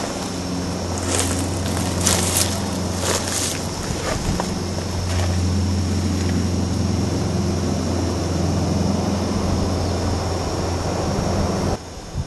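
A steady low droning hum under an even hiss, with a few sharp crackles in the first few seconds; the drone cuts off suddenly near the end.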